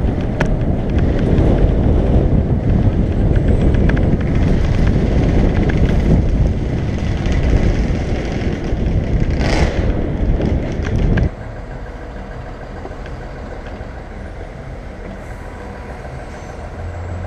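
Loud low rumble of street traffic heard from a moving bicycle, with a brief hiss about nine and a half seconds in. The rumble drops suddenly to a quieter hum about eleven seconds in.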